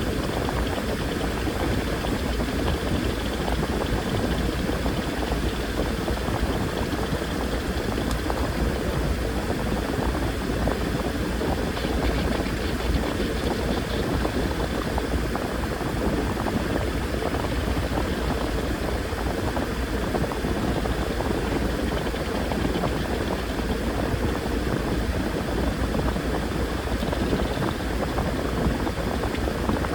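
Washing machine running mid-cycle: a steady low motor hum with water churning and sloshing in the drum.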